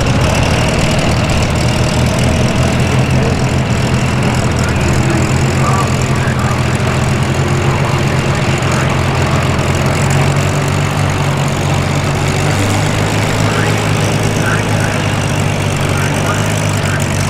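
Steady drone of many Spitfire and Hurricane V12 piston aero engines from a close formation flypast. Their pitch drops a little about twelve seconds in.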